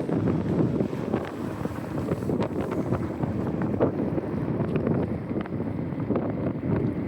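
Wind buffeting the microphone of a camera carried on a moving bicycle: a steady rumbling rush, with faint scattered ticks.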